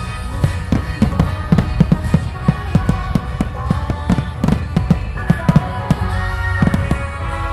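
Rapid volley of fireworks bangs, many sharp reports in quick succession, over background music.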